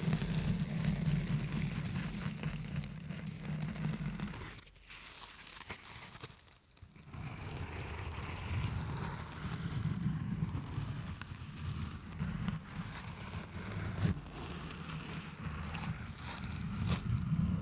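Fast scratching and tapping directly on a microphone, a rough crackly rubbing broken by a few sharp taps. It eases off about four and a half seconds in and stops briefly a couple of seconds later before starting again.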